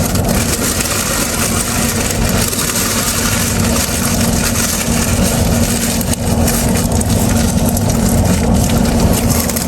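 Steady vehicle engine noise with a constant low hum.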